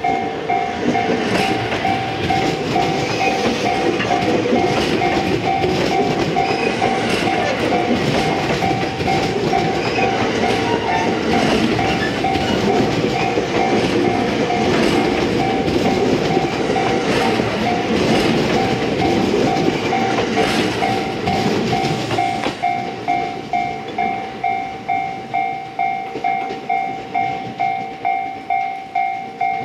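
A JR West 227 series electric train running past close by, its wheels rumbling and clicking over the rail joints; the train noise dies away about 22 seconds in. Through it all a railway level-crossing warning bell keeps ringing, about two dings a second, and it is left on its own near the end.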